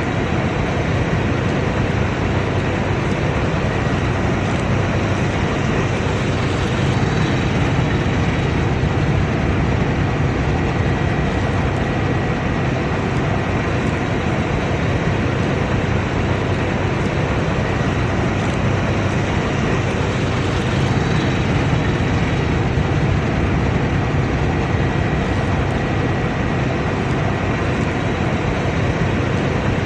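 Combine harvester running steadily under load, a constant mechanical drone with a low hum and a faint thin whine.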